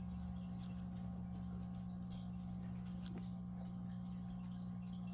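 Steady low hum with a few faint, soft ticks.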